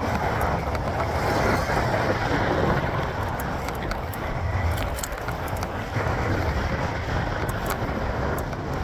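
Wind rushing over the microphone with tyre and road noise from a mountain bike being ridden, and scattered light clicks from the bike.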